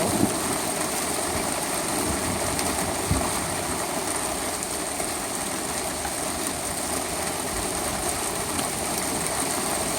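Heavy rain pouring down in a sudden downpour: a steady, even hiss of rain.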